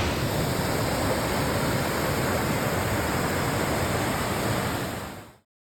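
Steady rush of falling water from a waterfall, which fades out quickly into dead silence near the end.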